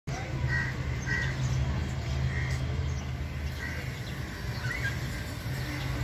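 A bird chirping, a short call repeated about five times at uneven gaps, over a steady low rumble.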